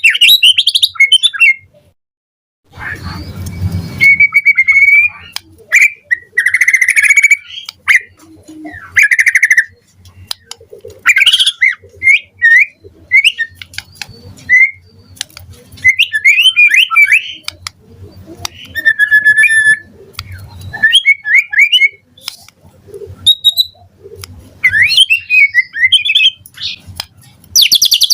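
White-rumped shama (murai batu) singing a continuous, varied stream of short whistles, sweeping notes, trills and chirps, with a brief burst of noise about three seconds in.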